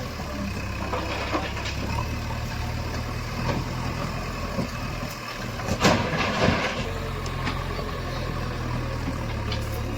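Heavy diesel engine running steadily at low revs, with a louder burst of clatter and knocks around six seconds in.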